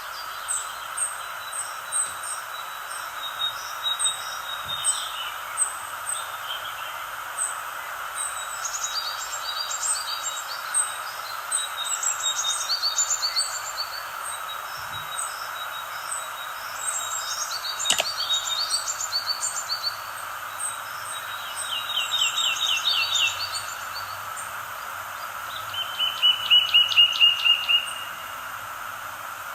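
Wild birds singing: many short high chirps and quick trilled phrases from several birds, the loudest a fast trill near the end, over a steady background hiss.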